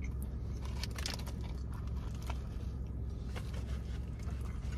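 A person chewing food with soft wet mouth sounds and a few scattered clicks, over a steady low hum.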